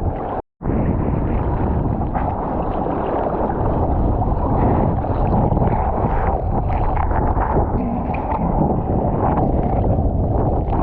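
Wind buffeting the microphone, mixed with rushing and sloshing water, steady and loud, with a brief dropout to silence about half a second in.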